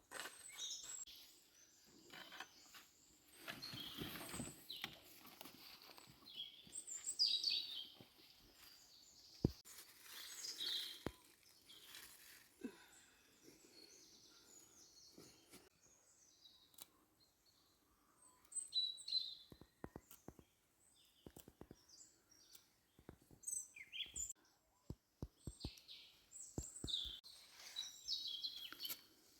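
Faint birds chirping in short scattered calls, with bouts of rustling and a few sharp clicks and knocks.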